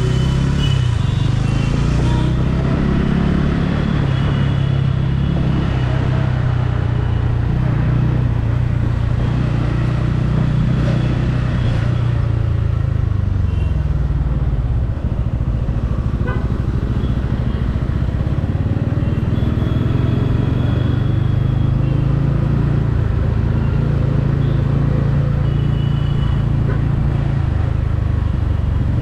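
Motorcycle engine running while riding in traffic, its pitch rising and falling with the throttle. Several short high tones are heard at times through the ride.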